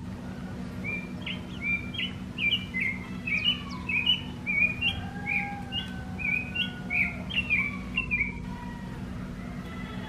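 A bird chirping: a quick run of short, bright notes, about two a second, starting about a second in and stopping near the end, over a steady low hum.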